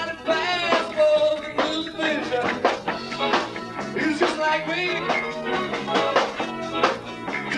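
Live band playing: a voice singing over guitar, bass guitar and drums.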